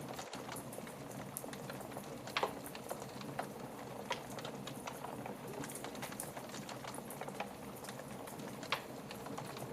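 Wood fire burning in a fireplace: a steady soft hiss with constant small crackles and a few louder pops, about two and a half, four and nearly nine seconds in.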